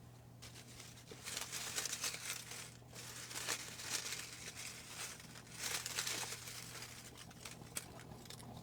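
Paper name slips rustling and crinkling in a hat as a hand rummages through them, in a few bursts.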